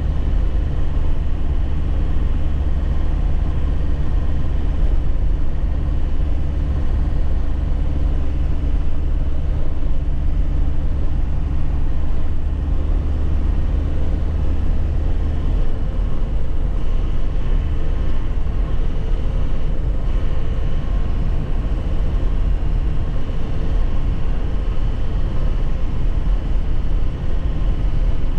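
2001 Nissan Cabstar light truck engine running steadily while driving, with constant low road rumble. The engine tone shifts about midway through.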